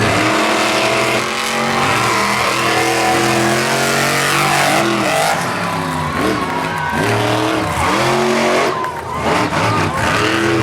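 Monster truck engines running and revving hard, several engine notes overlapping and repeatedly rising and falling in pitch.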